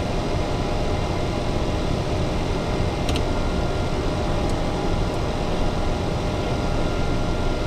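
Steady whir of air-conditioning and cooling fans in a parked business jet's cockpit, with a faint tick about three seconds in.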